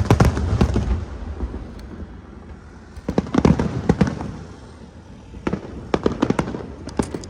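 Aerial fireworks shells bursting in three volleys of deep booms and sharp crackling, a few seconds apart.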